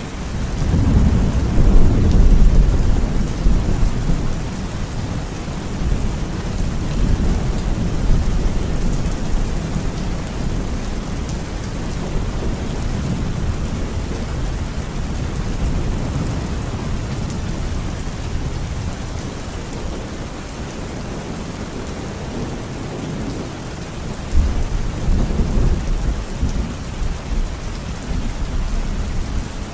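Heavy rain falling steadily. Low rolling thunder rumbles in the first few seconds and again near the end.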